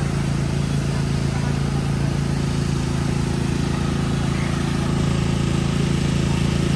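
A steady, unchanging low motor hum, like an engine or machine running at idle.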